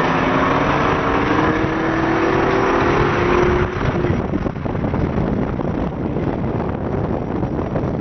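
Twin-turbocharged Camaro SS V8 pulling hard under acceleration, its pitch rising steadily, then falling off sharply about three and a half seconds in; after that the engine and road noise run on at a steady level.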